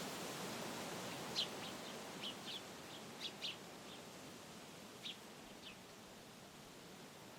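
Wind rushing through trees, easing off gradually, with a small bird giving several short, high chirps in the middle.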